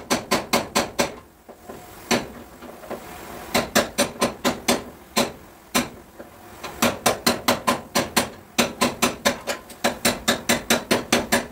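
A hammer striking a car's sheet-metal body panel in quick runs of about four or five ringing blows a second, with short pauses between the runs.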